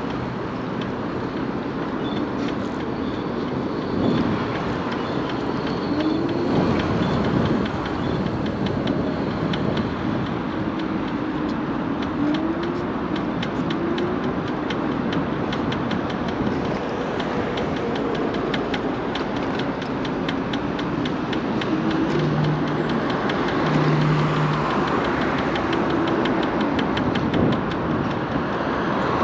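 Wind and road noise while riding a MiniPro Mi716 electric scooter, with a fast, fine ticking through most of the second half. Two short low tones sound near the end.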